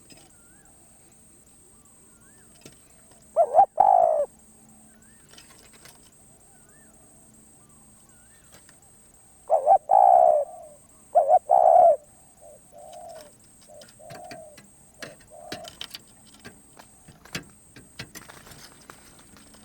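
Spotted dove cooing. It gives one loud phrase about three and a half seconds in, then another from about nine and a half seconds: two loud coos followed by a run of softer, shorter ones.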